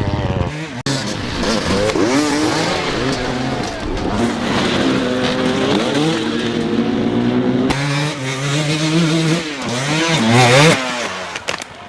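Dirt bike engine revving up and down in repeated swells, cut off abruptly about a second in and again near eight seconds. The revs climb to the loudest point near the end.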